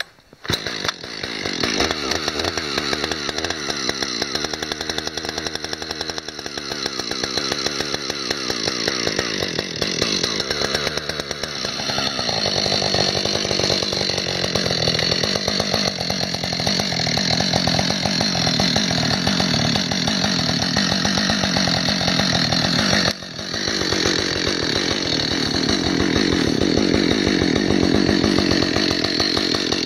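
Chainsaw running hard as it cuts into a small tree trunk. It comes in abruptly about half a second in, turns rougher and fuller as the bar bites deeper into the wood, and drops out for a moment near three-quarters of the way through.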